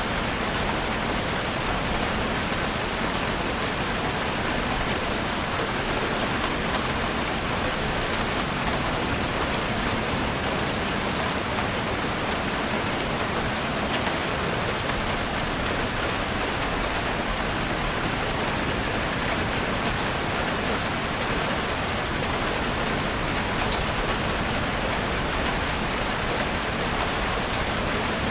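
Heavy rain falling steadily on a roof: a dense, even hiss with many small drop ticks and no letup.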